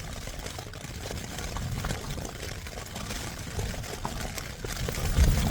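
Storm-force wind buffeting a Hilleberg Jannu tent, a steady low rumble with rain striking the flysheet, heard from inside the tent. A stronger gust comes about five seconds in.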